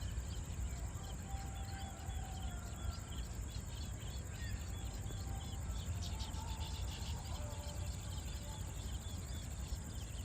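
Small birds chirping in quick repeated notes, with a few thin whistled notes and a steady high insect drone, over a low rumble of wind on the microphone.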